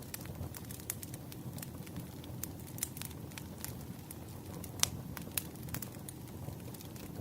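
Wood fire burning: a steady low rumble of flames with irregular sharp crackles and pops from the burning logs, one louder pop near the middle.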